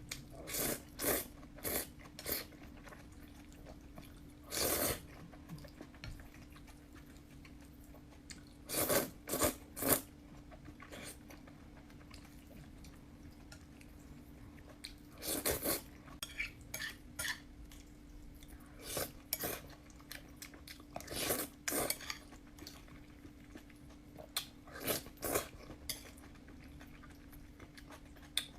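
Close-up eating sounds of noodles: utensils clicking against a bowl and chewing, in short irregular bursts, over a faint steady hum.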